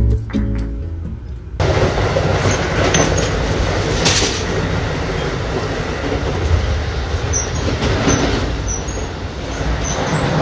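Amtrak passenger train running on the rails, a steady rumble with a few brief high wheel squeaks in the second half. Guitar music plays briefly at the start and stops about a second and a half in.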